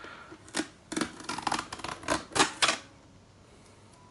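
Packing tape being peeled off the plastic nozzle of a handheld vacuum cleaner: a run of short crackling rips over about two seconds, stopping about three seconds in.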